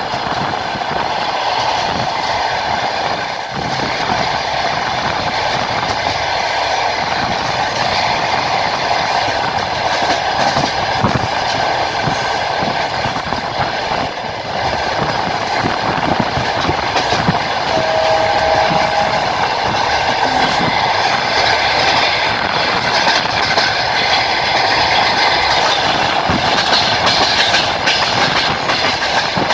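Passenger train running along the line: wheels clattering over rail joints in a steady rolling rumble. A brief two-note tone sounds about two-thirds of the way through.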